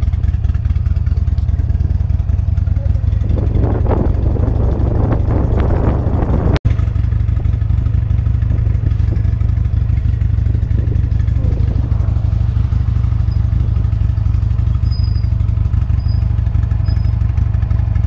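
Buell motorcycle running steadily on the road during a ride, a loud, even drone. The sound drops out for an instant about six and a half seconds in.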